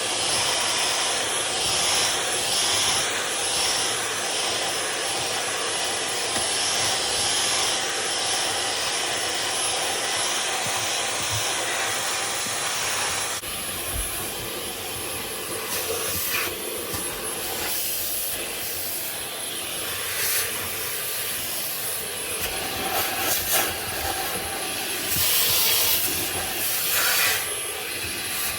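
Vacuum cleaner running steadily while cleaning a car's interior, a continuous hiss with a high whine. The sound changes about halfway through, and a few brief knocks follow as the nozzle moves around.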